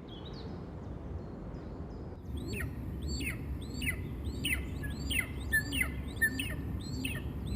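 A small bird chirping over and over, quick high notes coming about twice a second from about two seconds in, over a low steady background rumble.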